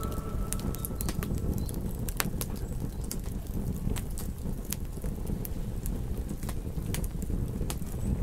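Campfire crackling: irregular sharp pops and snaps over a steady low rumble of burning wood. The tail of a wolf howl fades out in the first second.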